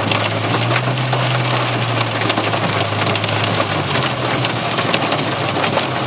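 Heavy rain pelting a car's roof and windscreen, heard from inside the car, thick with sharp ticking impacts. A low steady hum runs under it and fades out about four seconds in.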